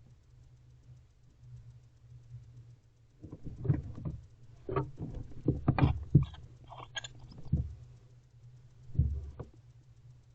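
Barn owls moving about inside a wooden nest box: a run of irregular knocks and scrabbling scrapes for a few seconds, then two more knocks near the end. A steady low electrical hum runs under it.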